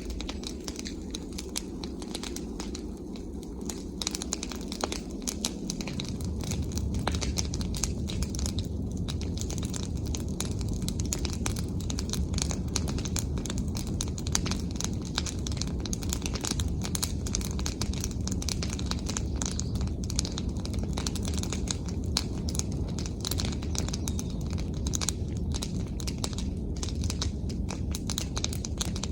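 Bonfire of branches and leafy twigs crackling and snapping steadily, with many small pops from the burning leaves. A low rushing of the flames grows louder about six seconds in.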